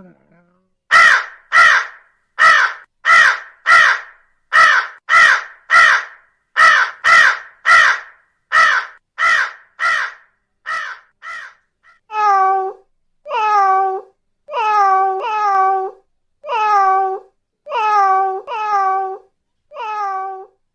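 An animal calling over and over: a fast series of short, harsh calls about two a second for the first ten seconds or so, then from about twelve seconds in a slower run of lower, more tuneful calls, each falling in pitch, about one a second.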